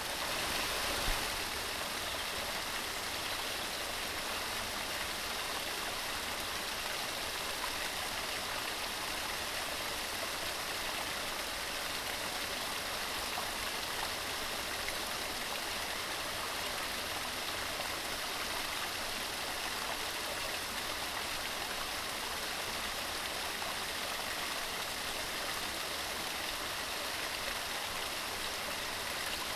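Mountain stream running: a steady, even rush of flowing water that holds unchanged throughout.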